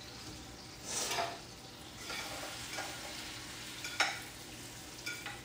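Chicken frying in a pan while being stirred, a steady sizzle with a utensil scraping the pan about a second in and a sharp clink about four seconds in.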